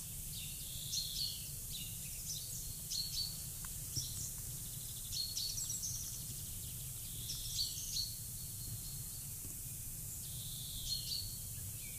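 Small birds chirping, with short high calls every second or so, a few of them sliding down in pitch, over a steady low rumble.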